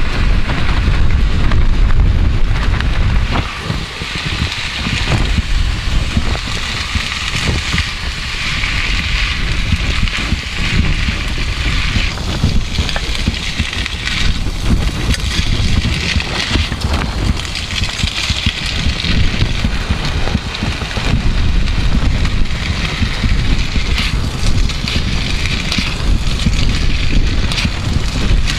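Chow mein noodles with sauces sizzling in a pan as they are stir-fried, a steady frying hiss. Strong wind buffets the microphone with a gusting low rumble.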